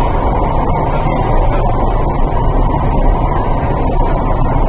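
Steady running noise of an MTR East Rail Line R-Train electric multiple unit heard from inside the carriage: a loud, even rumble of wheels on rail and traction equipment, with no distinct clicks or changes.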